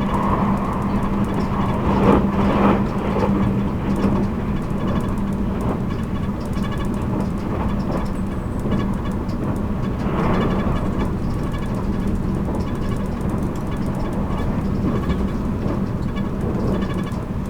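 Running sound of a 783-series electric train at speed, heard from its motor car MoHa 783-13: a steady low hum over wheel-on-rail rumble with frequent small clicks and rattles, and louder surges about two and ten seconds in.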